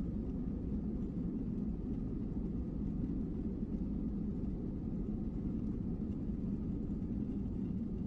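Steady low rumble of an airliner cabin in flight: engine and airflow noise with no changes.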